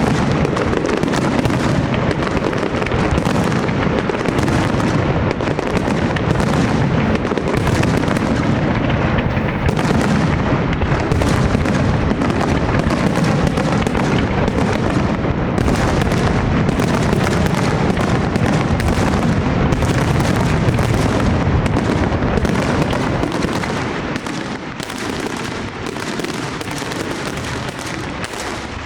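Large castillo fireworks display: a dense, unbroken barrage of shell bursts and bangs merging into a continuous rumble, easing slightly a few seconds before the end.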